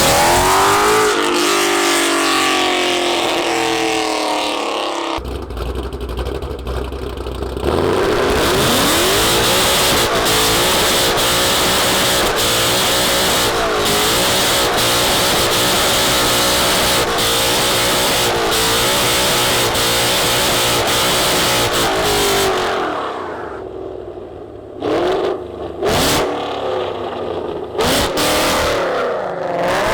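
Car engine revving hard, its pitch climbing and dropping again and again, with a loud steady hiss through the middle stretch and abrupt cut-offs near the end.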